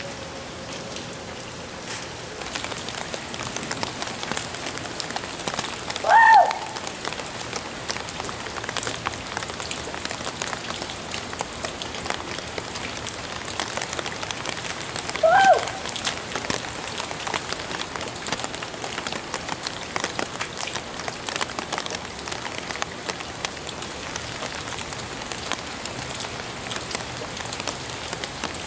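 Steady rain falling on a wet street, with many small drop hits. Two short, loud cries, each rising then falling in pitch, break through about six and fifteen seconds in.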